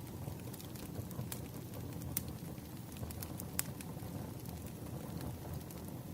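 Wood fire burning: a steady low rumble of flames with scattered sharp crackles and pops, a few louder snaps among them.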